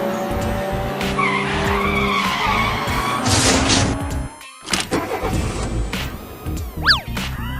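Cartoon car sound effects over background music: an engine running with tyre squeal for about four seconds, then a few knocks and a quick rising-and-falling whistle near the end.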